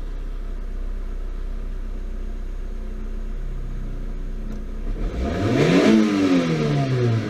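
Toyota AE111 Sprinter Trueno's 4A-GE 20-valve four-cylinder engine idling steadily, then revved once about five seconds in, the pitch rising quickly and falling back toward idle.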